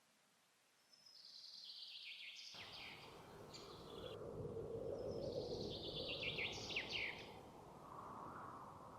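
Songbird singing two phrases, each a quick run of notes sliding downward and lasting two to three seconds. A steady rushing background noise comes in suddenly about two and a half seconds in.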